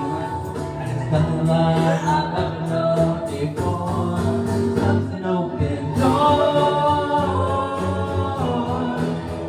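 Music with a group of voices singing together in held notes, in the manner of a choir.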